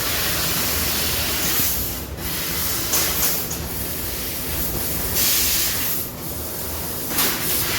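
CNC laser cutting machine running: a steady hiss over a low hum, with the hiss surging louder several times, every second or two.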